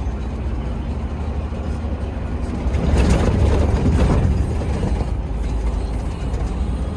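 Heavy truck on the road: a steady low engine drone with road noise, swelling into a louder rush from about three seconds in that fades after a second and a half.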